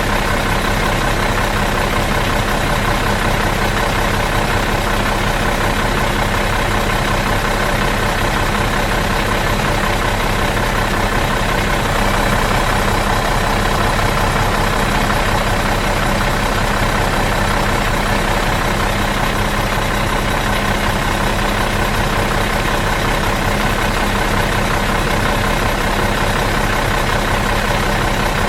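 Bus diesel engine idling out of gear, a steady, even running with no revving or change.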